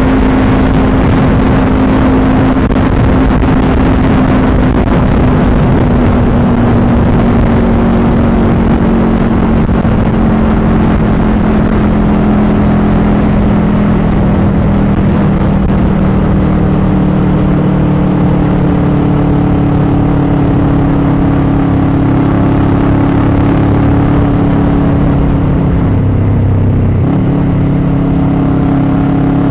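Motorcycle engine running at a steady cruise under heavy wind noise on the microphone; the engine note sinks slowly, dips briefly about three seconds before the end and then picks back up.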